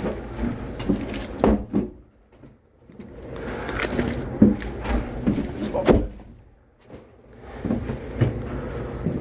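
Split firewood being handled and stacked: irregular wooden knocks and clattering, with two short lulls.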